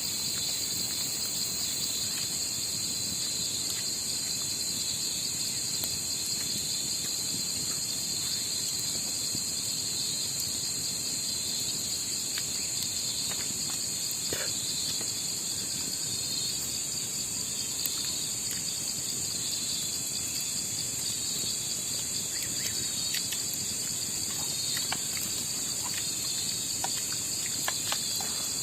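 Chorus of night insects such as crickets, a steady high-pitched trill that runs without a break, with a few faint scattered clicks.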